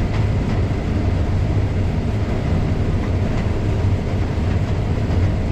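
Combine harvester running steadily while harvesting corn with a draper header, heard from inside the cab as a constant low drone with machinery noise above it.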